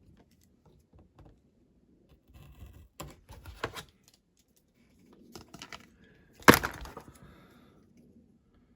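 Small hard parts and tools clicking and knocking on a workbench: a cluster of clicks about three seconds in, then one sharp, loud clack about six and a half seconds in.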